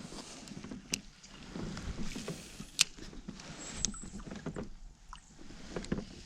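A kayak being paddled on a creek: paddle strokes dipping and splashing in the water, with a few sharp knocks or clicks scattered through.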